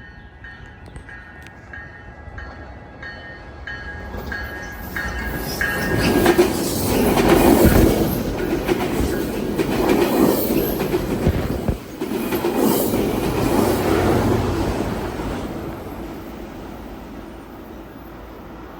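Commuter train passing: the rumble and wheel clatter build from about four seconds in, stay loud through the middle, and fade near the end. Before the train arrives, a repeated ringing comes about twice a second.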